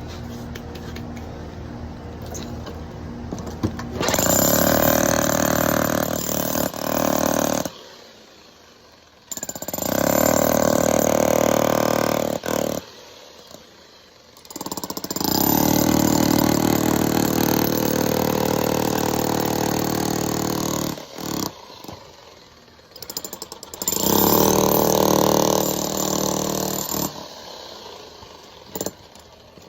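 Power demolition hammer chipping sidewalk concrete to reach a leaking pipe. It runs in four bursts of a few seconds each, stopping in between.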